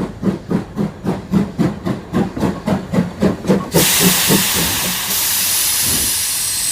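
Steam locomotive sound effect: the engine chuffing at a steady pace, about four chuffs a second. About three and a half seconds in, it changes abruptly to a steady hiss of steam.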